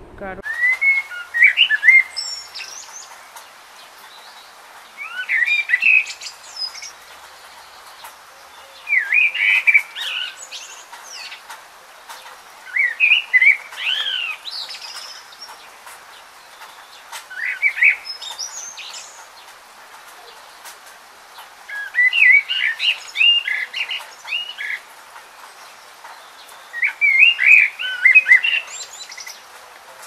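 Small bird chirping in short bursts of quick, high, rising and falling notes, a burst about every four seconds, over a faint steady hiss.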